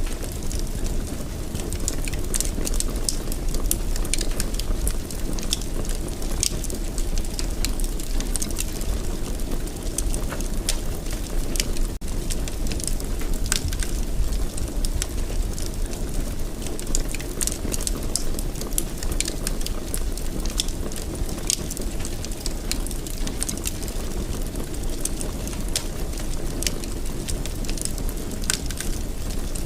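Wood fire burning in a fireplace: frequent sharp crackles and pops scattered irregularly over a steady low rush of flames.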